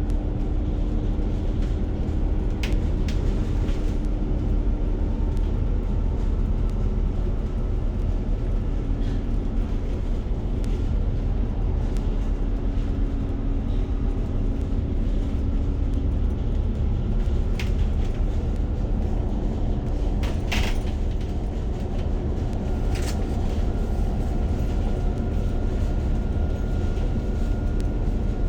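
Steady low rumble of a bus's engine and tyres heard from inside the passenger cabin, with a few short rattles and clicks. A faint steady whine comes in near the end.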